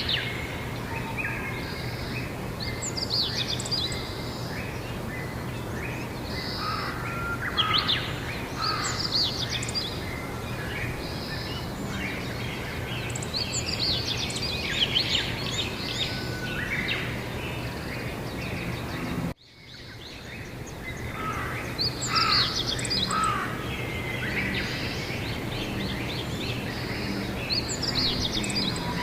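Spring birdsong: many birds chirping and trilling over a steady low background hum. About two-thirds of the way through, the sound cuts out abruptly and fades back in, an edit join between recordings.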